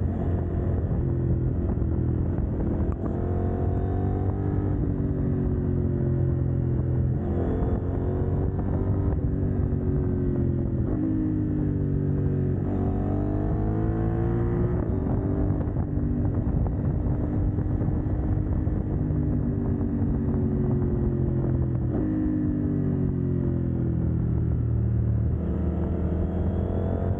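CFMoto 800NK parallel-twin motorcycle engine with its catalytic converter removed, pulling hard and rolling off as the bike is ridden. The pitch climbs and drops again several times, as it does with acceleration, gear changes and slowing for bends.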